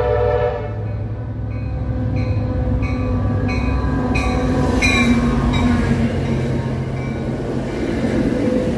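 Amtrak San Joaquins train led by an F59PHI diesel locomotive pulling in and passing close by. The horn's last blast cuts off about half a second in, then a bell dings about one and a half times a second for a few seconds over the locomotive's low diesel rumble. After that the bilevel passenger cars roll past with wheel and rail noise.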